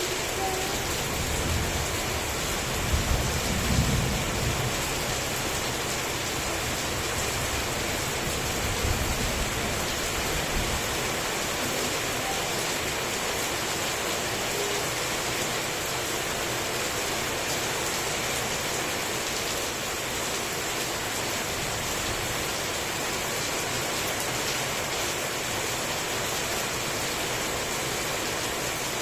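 Heavy rain falling steadily, with a low rumble of thunder about three seconds in and a shorter one around nine seconds.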